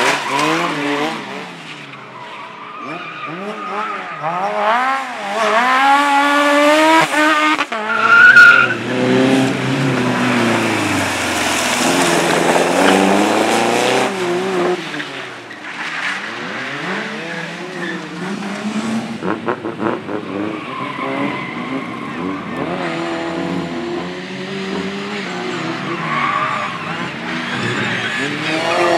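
A car's engine revving hard through a slalom run, its pitch climbing and dropping again and again with gear changes and lifts, with tyres squealing and skidding through the turns. The loudest moment comes about eight seconds in.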